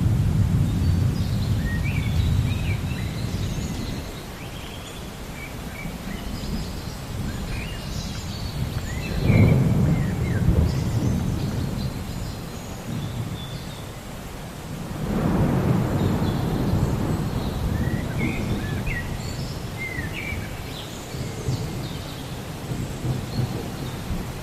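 Thunder rumbling in long rolls over a steady hiss of rain, swelling at the start, sharply about nine and a half seconds in, and again around fifteen seconds. Birds chirp in short high calls throughout.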